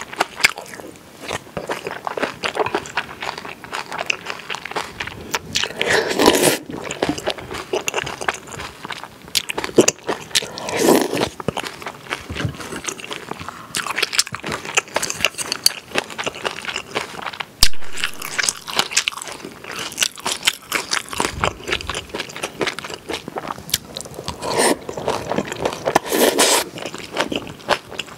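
Close-miked eating of spicy pork kimchi duruchigi: wet chewing and crunching, with a few louder crunchy bites.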